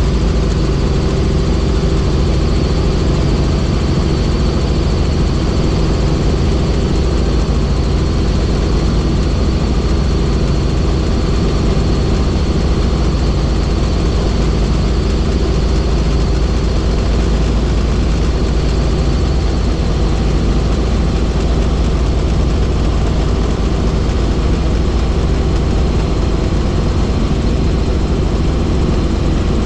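Helicopter in flight: a steady, unbroken drone from the rotors and engine, with a faint high whine held above it.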